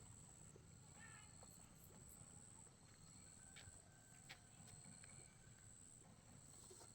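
Near silence: faint outdoor background with a steady high thin tone and a few faint short chirps or ticks.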